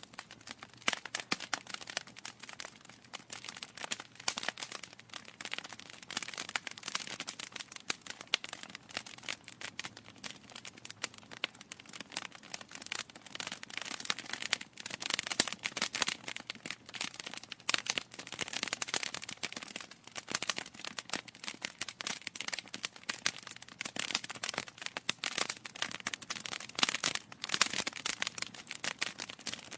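Wood fire in a fireplace crackling and popping: a steady stream of irregular sharp snaps from burning logs.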